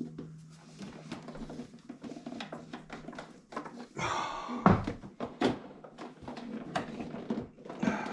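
Hands working a rubber intake hose onto a plastic air filter box: scattered knocks and clicks, a scraping rustle about four seconds in, then a sharp knock.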